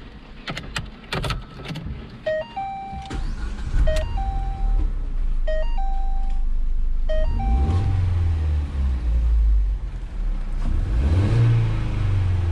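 2011 Ford Fiesta's 1.6-litre four-cylinder engine started with the key, with clicks as the key goes in and a repeating two-note dashboard warning chime, then revved twice and let fall back to idle. It revs freely past 2,000 rpm, a sign that cleaning the ground connections has cured the throttle limit.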